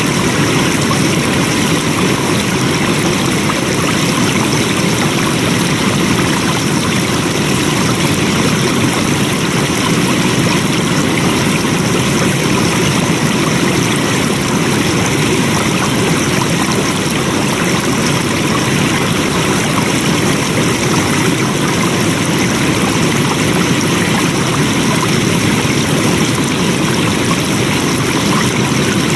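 Flowing water, a stream running steadily without a break.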